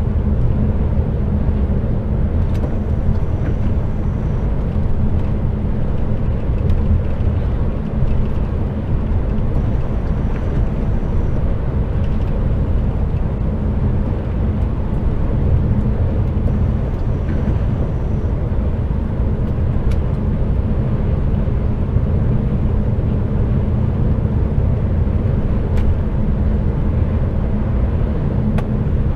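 Cab interior of an HGV container truck on the move: a steady low engine drone with road and tyre noise, even in level throughout.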